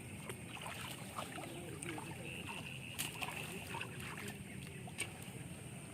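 Water sloshing and splashing in a flooded rice field as fishing nets are handled. A steady high-pitched drone runs underneath, and a few sharp knocks come about three seconds in and again near the end.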